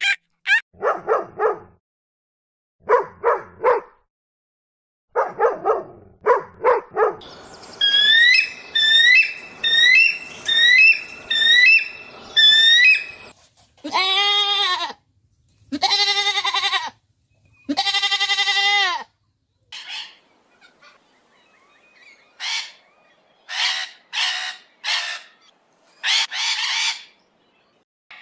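A sequence of different animal calls, one kind after another. First come short repeated calls, then several seconds of quick chirping, then three long calls of about a second each that rise and fall in pitch, then short calls again near the end.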